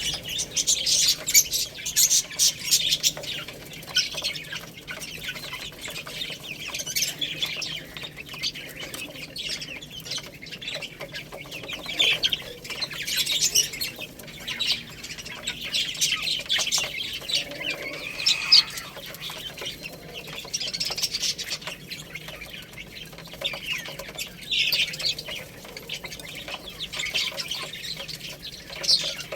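Baby chicks peeping, a constant chorus of short, high-pitched chirps.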